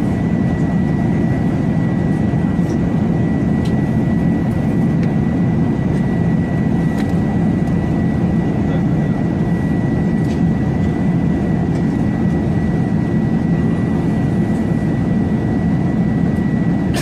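A steady, loud low rumbling drone with a thin constant high whistle held above it.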